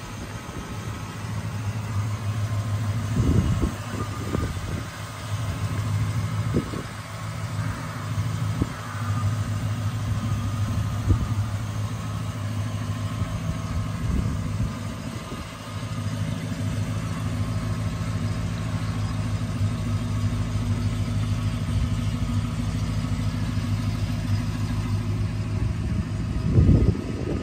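A 1960 Chrysler Saratoga's V8 idling steadily, with a few light knocks and a louder bump near the end.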